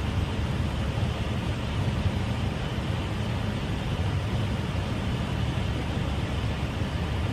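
Steady cockpit noise of an airliner on final approach: a continuous rush of airflow over a low engine rumble, holding an even level.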